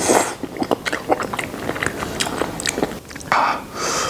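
Close-miked wet chewing and lip smacking of soft, fatty braised pig-face meat: a steady run of small sticky clicks, with a louder burst a little after three seconds in.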